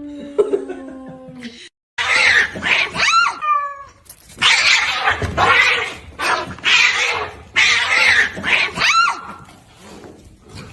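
A cat caterwauling: first a low, held cry, then after a short break a run of about seven loud hissing bursts, each ending in a rising wail.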